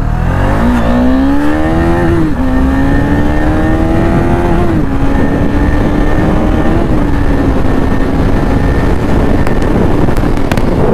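KTM Duke 250 single-cylinder motorcycle accelerating hard through the gears: the engine note rises, drops at a shift about two seconds in, rises again, drops at a second shift near five seconds, then holds steady at cruising speed. Wind rumbles on the helmet microphone.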